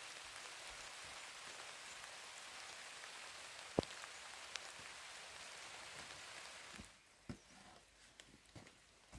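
Steady rain falling, an even hiss with a single sharp tap about four seconds in. The rain sound cuts off abruptly near seven seconds, leaving a few soft knocks.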